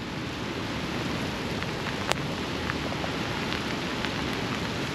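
Steady rain falling, with scattered light drop ticks and one sharper tick about two seconds in.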